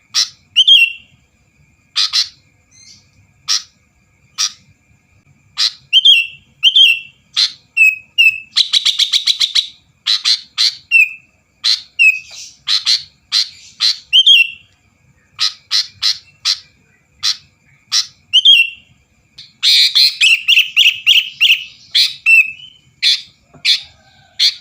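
Sooty-headed bulbul (kutilang) singing steadily: a string of short, sharp notes and chirps, a rapid trill about nine seconds in, and a fast chattering run about twenty seconds in.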